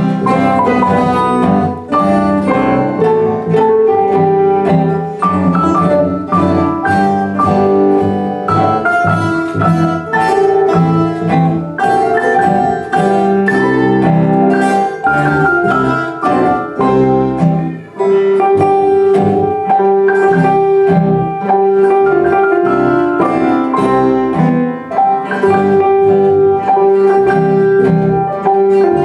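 Live music from an ensemble of plucked string instruments, playing a continuous tune of quick, picked notes.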